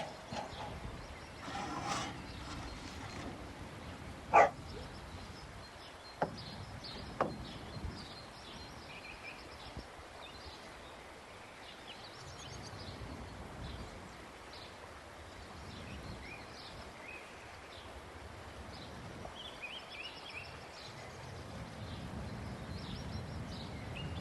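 Quiet outdoor ambience with faint birds chirping on and off, and three sharp knocks or clinks in the first eight seconds.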